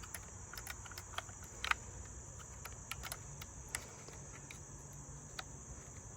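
Scattered light clicks and taps from hands working on the chainsaw, over a steady high chirring of crickets. No engine is running.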